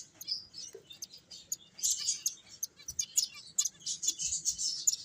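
Several pet finches chirping, a busy run of short, high calls overlapping one another.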